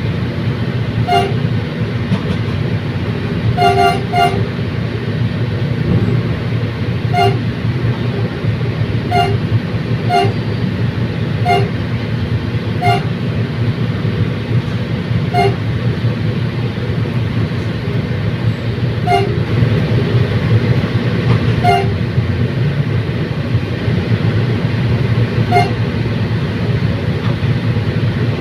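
Diesel commuter train running steadily: a continuous low rumble, with short sharp clicks at uneven gaps of one to two seconds.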